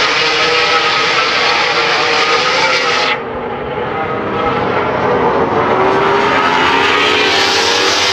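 MotoGP race motorcycles running at race pace past the track, their engines loud and continuous. About three seconds in, the sound suddenly turns duller for several seconds. Around then one engine note falls and then climbs back up.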